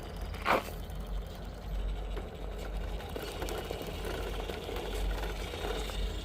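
Scale RC rock crawler's electric motor and gear drivetrain running as the truck creeps over rock, with a sharp knock about half a second in.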